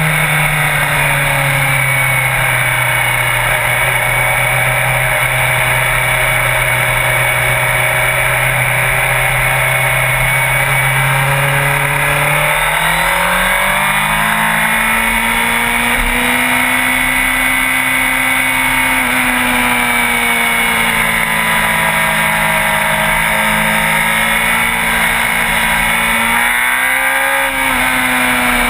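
Sport bike engine under way at a steady speed. The note holds, climbs to a higher pitch about halfway through and stays there, then dips briefly and recovers near the end, like a quick shift or roll-off of the throttle.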